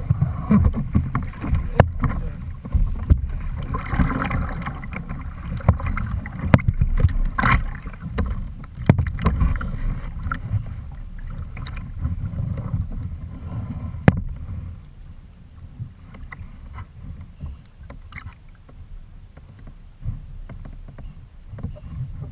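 Water sloshing against a kayak with scattered knocks and clicks on the hull, over a low wind rumble on the microphone; busier in the first half, then quieter.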